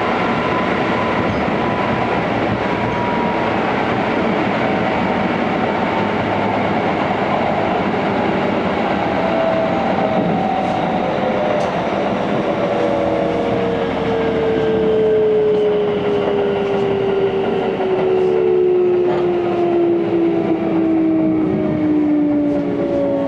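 Keikyu 600 series electric train heard from inside the carriage: steady wheel and rail running noise. From about nine seconds in, the traction motors' whine falls steadily in pitch as the train brakes for a station, with a few light clicks from the wheels over rail joints.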